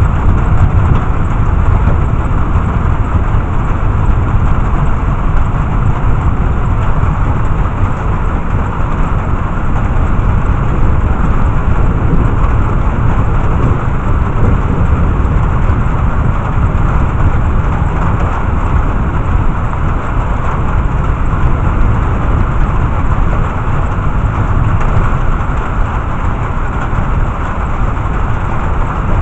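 Steady rain in a thunderstorm, with a continuous low rumble under it and no sharp claps.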